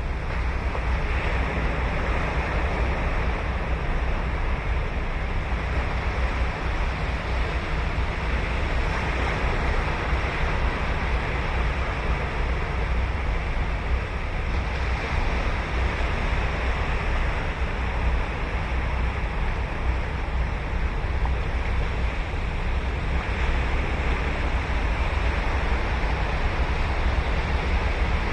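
Ocean waves breaking and washing onto a sandy beach, a continuous surf with swells every several seconds, over a low rumble of wind on the microphone.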